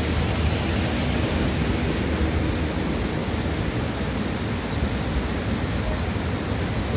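Steady rushing of a river in flood, a constant loud wash of water noise without letup.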